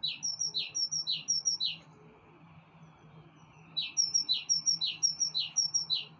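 A small songbird singing two phrases of a repeated note group, each group a quick falling whistle with short high notes: four repeats, a pause of about two seconds, then five more.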